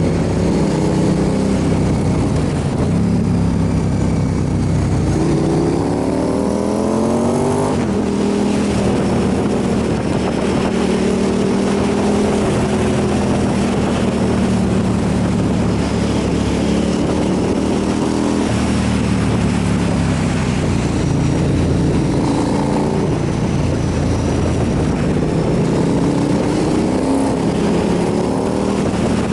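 Motorcycle engine under way over a steady rush of noise. It revs up, rising in pitch for a few seconds, drops sharply about eight seconds in as it shifts gear, then holds steady at cruising speed, with shorter rises again later on.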